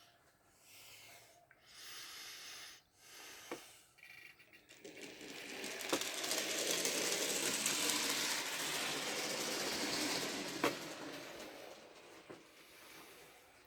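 N gauge model train running on the track: a whirring, hissing mechanical rattle that swells as it comes close, holds for several seconds and fades away, after three shorter swells of the same noise, with a few sharp clicks.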